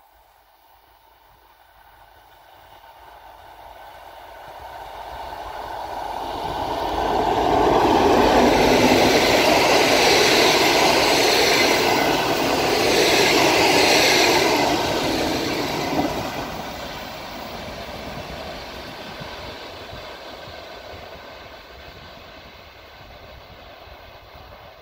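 Passenger train hauled by a TEP70BS diesel-electric locomotive approaching and passing close by: the locomotive's diesel and the wheels on the rails build up over about eight seconds, stay loud for several seconds as the coaches go past, then fade as the train moves away.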